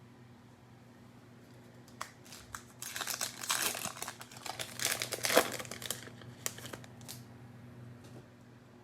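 Cellophane wrapper of a trading-card pack crinkling as it is torn open. It is a dense run of crackles over about three seconds, with a few stray ticks afterwards.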